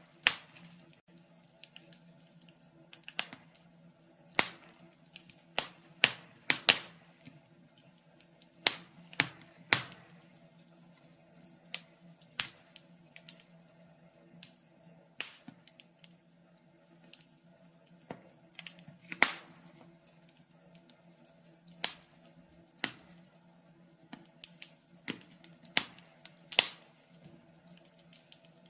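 Wood fire crackling: irregular sharp pops and snaps from burning logs, a handful much louder than the rest, over a faint steady low hum.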